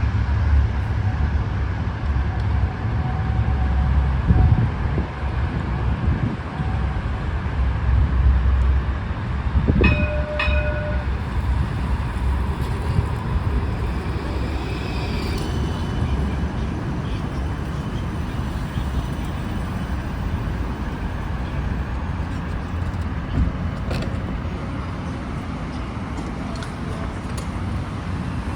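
Cincinnati Bell Connector streetcar, a CAF Urbos 3 light-rail car, running along its street track with a steady low rumble. About ten seconds in there is a sharp clack with a brief ringing tone, and faint high squealing a few seconds later.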